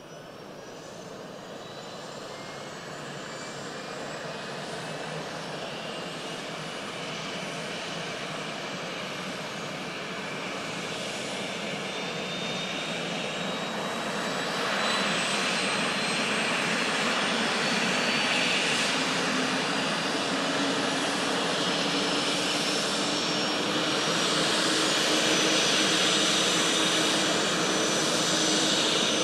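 Airbus H145 D2 helicopter's twin turboshaft engines starting up: a turbine whine that climbs steadily in pitch and grows louder, with a further rise in level about halfway through as the rotor comes up to speed.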